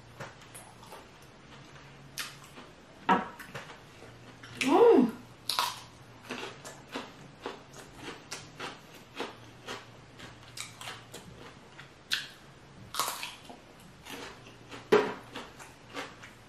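Close-up chewing of lobster meat: soft, irregular wet mouth clicks and smacks, with a few sharper clicks. About five seconds in there is a short voiced sound that rises and falls in pitch.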